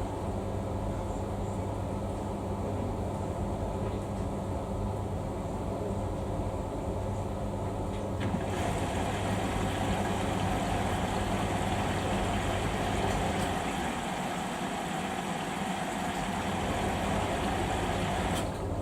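Samsung front-loading washing machine running mid-wash with a steady motor hum. A wider rushing, swishing sound joins about eight seconds in, and the low hum dips out for a couple of seconds later on.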